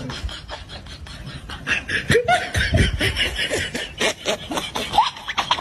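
Laughter: a quick run of short, breathy laughs with a few rising squeaks.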